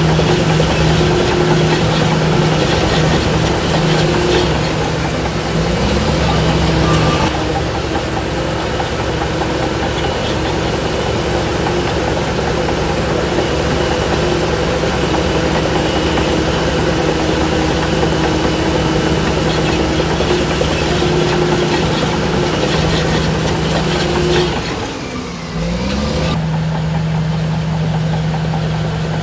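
Heavy diesel earthmoving machinery running steadily. About 25 seconds in, the engine note briefly drops, then climbs back.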